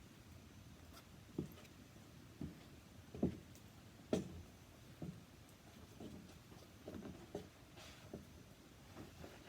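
Wood fire crackling faintly, with irregular small pops and snaps about once a second; the sharpest two come a little over three and four seconds in.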